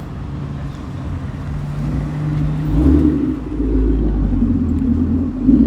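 A car's engine running and building up, its low note growing louder, with a heavier, fuller tone from about three seconds in.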